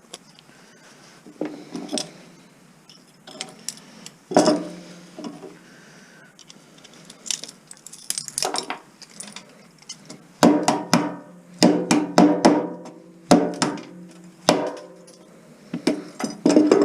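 Sharp metallic clinks and knocks as a tool works at a porcelain light socket to free its brass contacts: scattered clinks at first, then from about ten seconds in a fast run of knocks, each one ringing briefly.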